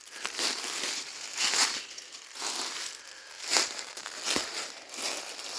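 Footsteps crunching through dry leaf litter on the forest floor, about one step a second.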